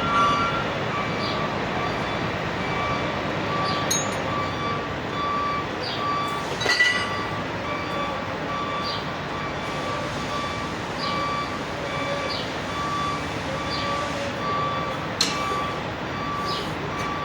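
An electronic warning beeper sounding a steady, evenly repeating beep over background workshop noise, with a few sharp knocks along the way.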